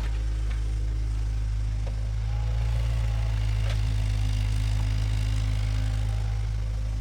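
Bulldozer's diesel engine running steadily with a deep, even drone, with a few faint clanks over it.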